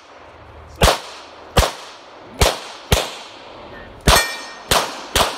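9mm CZ Shadow 2 pistol firing seven shots in quick succession, about half a second to a second apart, during an IPSC course of fire. A bit past midway one shot is followed by a brief metallic ring.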